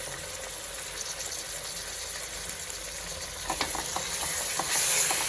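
Chicken pieces sizzling in hot oil with fried onions in a pressure cooker pot, the sizzle swelling near the end. In the second half a spoon knocks and scrapes against the pot several times as it is stirred.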